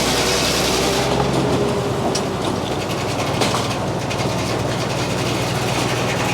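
A Frick sawmill's circular saw blade cutting through a poplar log, with a steady high hiss over the constant drone of the mill's engine.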